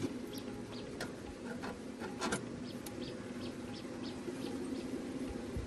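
Small birds chirping in short repeated calls over a low steady background hum, with a few sharp knocks about one and two seconds in.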